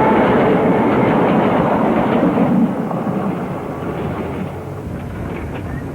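Electric train running on the line, a dense rumble and rattle that eases slightly about two and a half seconds in, on an old film soundtrack with dull, muffled highs.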